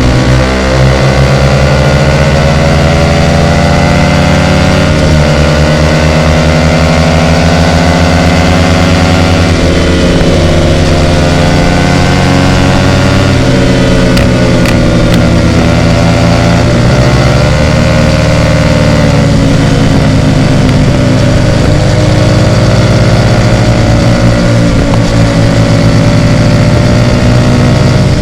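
Loud Hyosung GT250R 250 cc V-twin with an aftermarket Ixxile racing exhaust, running under way with the engine speed rising and falling gradually. The revs drop and pick up again a couple of times.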